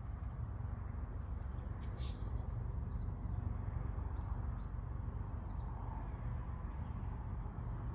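Steady low hum under a faint, continuous high trill like crickets, with a single short click about two seconds in.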